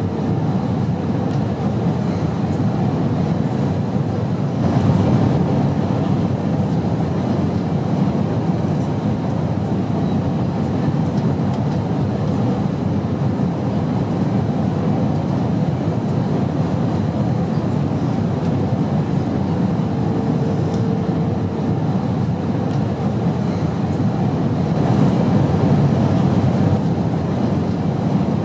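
Airplane noise: a steady, even low rumble of engines and rushing air, swelling slightly a couple of times.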